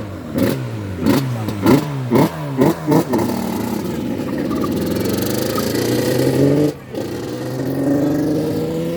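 Motorcycle engine revved in a string of quick throttle blips, about two a second, then held on a long rising rev that cuts out briefly near seven seconds and climbs again.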